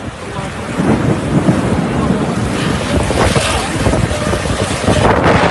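Rainstorm wind and heavy rain, with strong gusts buffeting the microphone in a loud low rumble that swells about a second in and stays loud.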